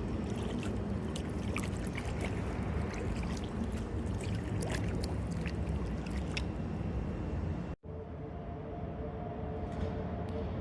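Kayak paddling with water dripping and trickling off the paddle, many small drips and splashes over a steady low rumble. About three-quarters of the way through, the sound cuts out abruptly. A steady hum with two held tones then takes over.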